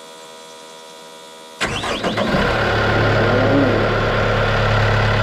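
After a faint steady hum, the Cat 272D3 skid steer's diesel engine cranks and starts about a second and a half in, then settles into a steady idle. This is its first run after the oil change, to fill the new oil filter.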